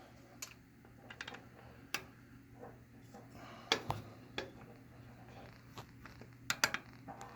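Light, scattered metallic clicks and taps of a 3 mm Allen key being tried against a small hex set screw that it is too big for, with a few sharper clicks around four and six and a half seconds in.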